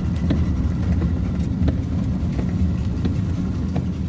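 Road and engine noise heard inside a moving pickup truck's cab: a steady low rumble, with a few scattered light ticks.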